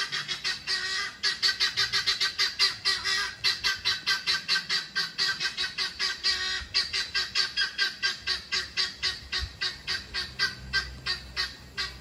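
Birds in a tree calling rapidly and without pause, about four or five calls a second, the calling thinning out near the end.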